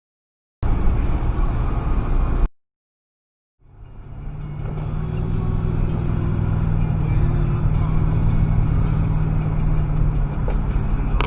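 Car driving noise heard from inside the vehicle: a steady engine drone and road rumble. It starts with a second or two of noise set between two dead-silent gaps. About three and a half seconds in, it fades back in and then holds steady.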